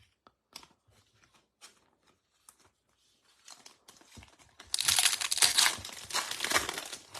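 Cards being handled with small clicks, then about two-thirds of the way in the loud crinkling and tearing of a foil trading-card pack wrapper being ripped open and crumpled.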